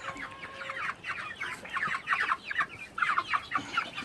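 Flock of young chickens clucking and chirping: many short, quick, overlapping calls.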